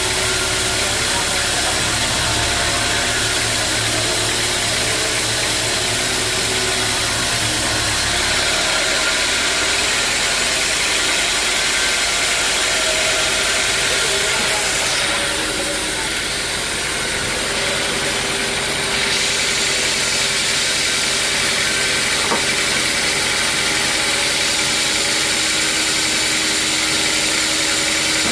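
Sawmill machinery running steadily, a motor with a constant hiss over it; a deep rumble underneath drops away about a third of the way in.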